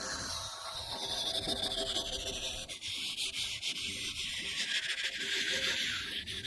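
Continuous scraping and rubbing, made up of many quick strokes: cookware being scrubbed clean after a meal.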